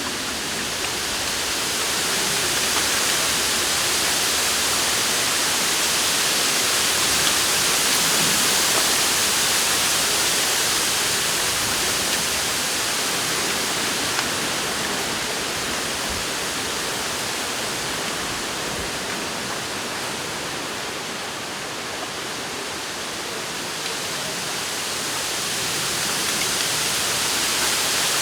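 Wind blowing through a bamboo forest, the leaves rustling in a steady hiss that swells and eases with the gusts.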